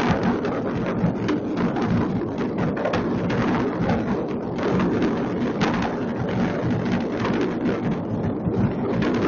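Countless fireworks going off at once across a city, heard from a distance: an unbroken, dense crackle of overlapping bangs and booms.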